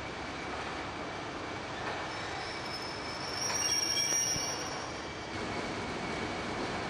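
Train wheels squealing against the rails as a train moves through the station, over a steady rumble of running noise. The squeal rises to its loudest about three to four seconds in and fades out just after five seconds.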